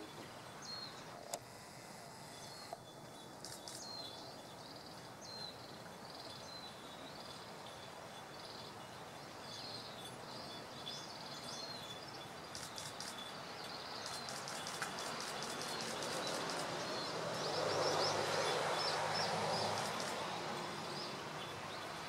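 Outdoor background noise with short, high bird chirps repeating throughout. A broader noise swells to its loudest about three-quarters of the way through, then eases off.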